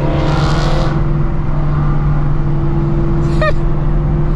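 Steady engine drone of a Shelby GT350's 5.2-litre flat-plane-crank V8 with long-tube headers, cruising. In the first second another car's engine is heard accelerating past, a Dodge R/T.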